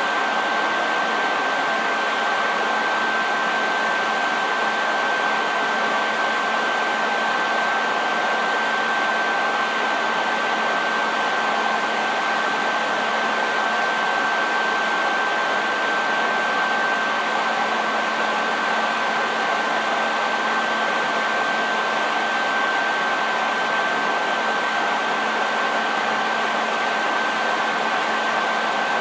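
Hair dryer running steadily: an even rush of blown air with a constant high-pitched motor whine and a faint low hum underneath.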